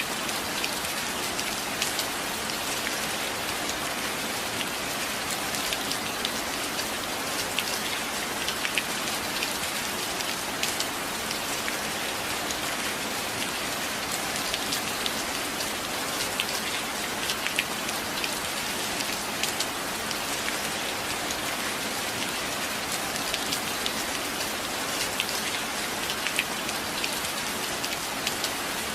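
Steady rain falling: an even hiss with frequent sharp drops ticking through it.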